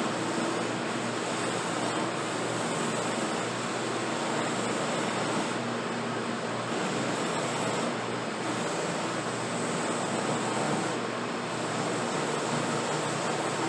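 Electric buffing wheel running steadily, a constant rushing noise with a low motor hum, as a briar pipe bowl and ebonite stem are buffed.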